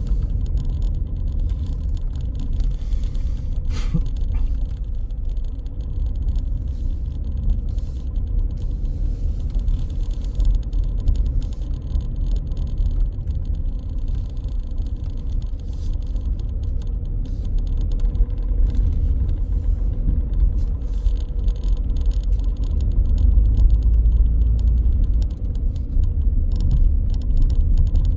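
Car driving along city streets: a steady low rumble of engine and road noise, with a single sharp click about four seconds in.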